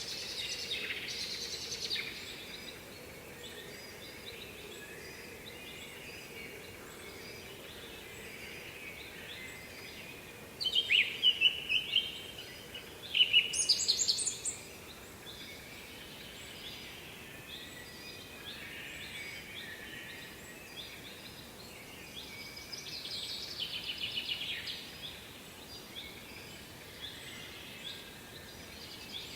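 Songbirds singing in short, bright phrases over a steady rushing noise from the waterfall. The song is loudest in two bursts around the middle and picks up again near the end.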